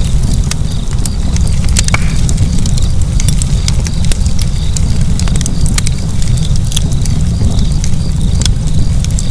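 Wood fire burning with a steady low rumble of flames and frequent sharp, irregular crackles and pops.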